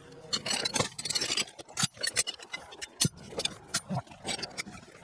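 Metal hand tools clinking and rattling as they are pulled out of under-seat storage in a truck cab: an irregular run of clicks and knocks.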